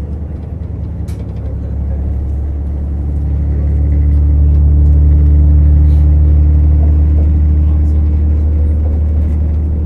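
Diesel engine of a JR Hokkaido KiHa 150 railcar running under power with a deep, steady hum. It grows louder over the first few seconds, peaks about halfway through, then eases off a little.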